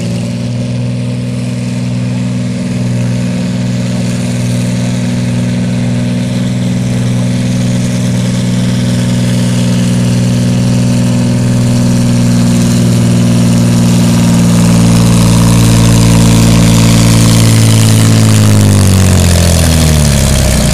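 Diesel engine of a 6,000 lb altered stock pulling tractor running hard under load at a steady high pitch, then winding down with a falling pitch near the end as the pull finishes.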